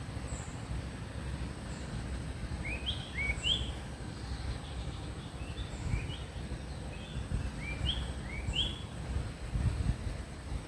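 Sooty-headed bulbul calling: short, rising chirpy notes in quick pairs and little runs, starting about three seconds in and stopping near nine seconds. A steady low rumble runs underneath.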